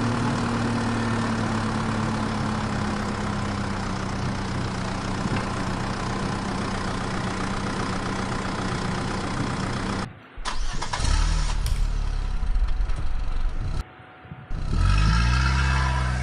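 A vehicle engine running at a steady idle-like hum for about ten seconds. It stops abruptly and is followed by more engine sound with two sudden breaks, then a rise and fall in pitch like revving near the end.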